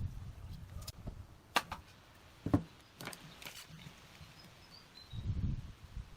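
Several sharp knocks and clicks, the loudest about a second and a half and two and a half seconds in, then dull low thuds near the end, with a bird's short falling chirps faint in the background.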